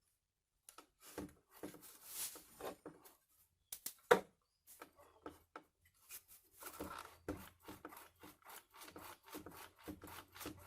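The bearing and roller of an old Craftsman belt sander, turned over by hand, making quiet irregular rubbing and ticking strokes that come quicker and more evenly in the second half. The bearing has just been sprayed with WD-40 to cure a squeal from dry bearings.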